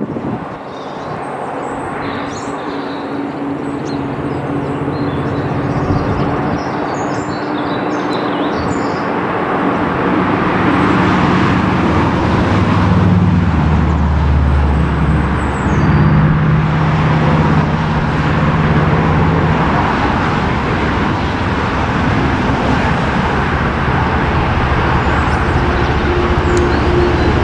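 Diesel freight locomotive engine running under a broad rumble of the train, growing louder over the first half as it approaches, its engine note shifting in pitch about halfway through. Birds chirp faintly in the first several seconds.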